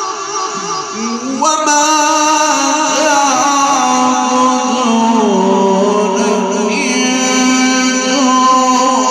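A man's voice reciting the Quran in the melodic chanted style, drawing out long held notes with ornamented turns. A new phrase begins about a second and a half in, and the pitch steps down around the middle.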